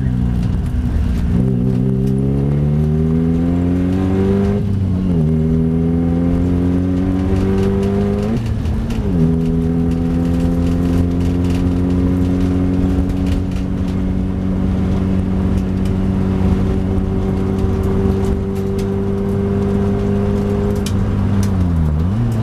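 Fiat Cinquecento's tuned 1.2 16v four-cylinder engine accelerating hard, heard from inside the cabin: the revs climb and drop sharply at upshifts about five and nine seconds in, then rise slowly in one long pull before falling off near the end as the driver lifts and changes down.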